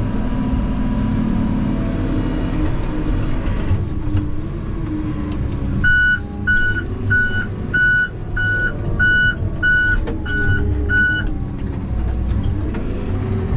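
Heavy logging machine's engine running steadily, with its reversing alarm beeping about nine times, roughly three beeps every two seconds, from about six seconds in until about eleven seconds.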